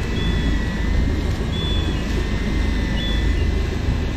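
Fishing boat's engine running steadily with a deep rumble, a thin wavering whine above it, and short high beeps repeating about every second and a half.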